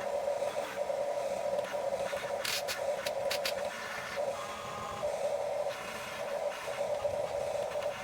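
Small electric motors and plastic gearboxes of a Huina 1550 RC excavator whining steadily as it works, the pitch dipping and shifting a few times, with a few short clicks and scrapes a few seconds in.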